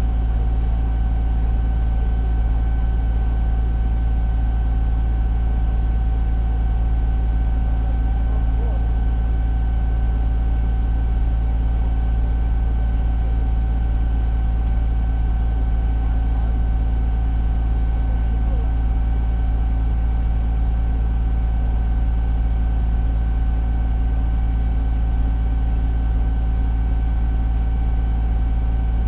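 Fire engine's diesel engine running steadily, heard from inside the cab: a constant low rumble with a steady high whine over it.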